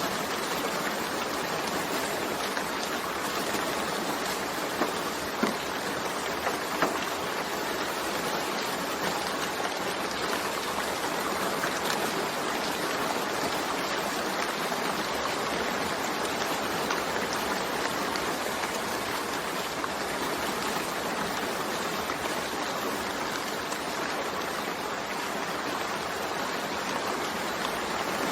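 Steady rain falling, an even hiss with a few sharper drop hits about five to seven seconds in.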